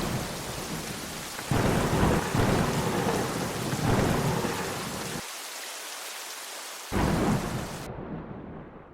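Steady rain with rolling thunder: deep rumbles swell at the start, again from about a second and a half in, and once more about seven seconds in. The rain cuts off abruptly about a second before the end.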